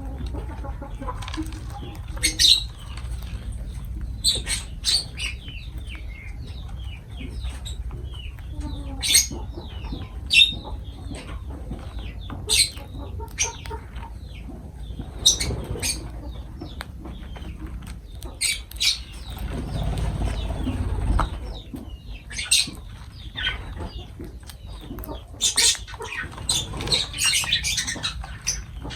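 Lovebirds giving short, sharp, high chirps and squawks at irregular intervals, with a stretch of rustling or wing flapping about twenty seconds in.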